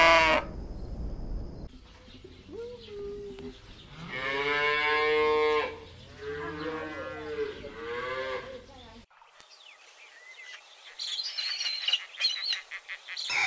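Cattle mooing: a short moo, then a long moo and a few shorter ones. After a sudden cut about nine seconds in, high chirping calls with quick clicks from a different animal.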